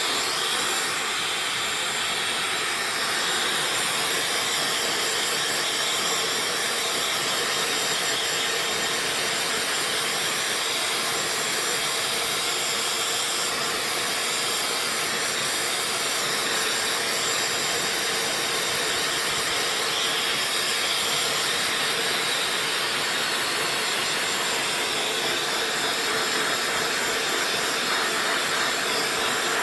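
Dyson hair dryer running continuously, a steady airy rush of blown air with a faint high whine from the motor, used as white noise.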